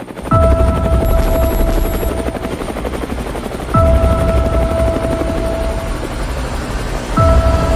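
Helicopter rotor sound effect chopping steadily under a song intro. Three times, about every three and a half seconds, a held synth note sounds together with a bass hit that falls sharply in pitch.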